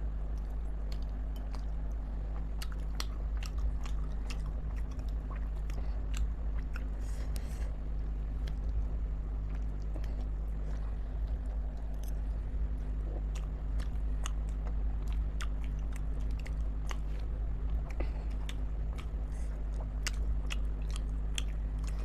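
A person chewing and biting into chicken momos, close to the microphone, with frequent short wet clicks of the mouth throughout. A steady low hum runs underneath.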